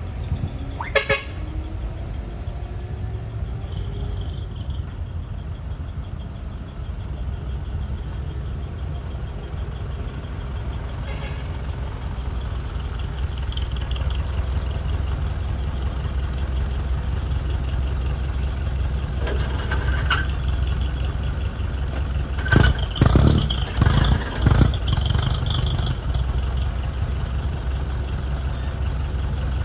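Heavy truck's diesel engine running with a steady low rumble as it pulls away. A few sharp knocks and clatter cut through it, most of them in a cluster about two-thirds of the way through.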